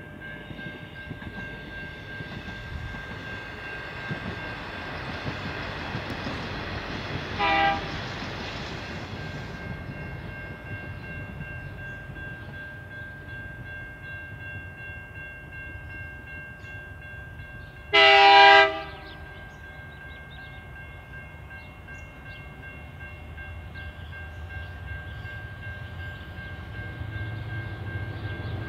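Approaching diesel-hauled freight train (locomotives LDP003 and 6002): the lead locomotive sounds a short horn blast about seven seconds in and a longer, louder blast about eighteen seconds in, and the low engine rumble grows near the end as the train draws closer.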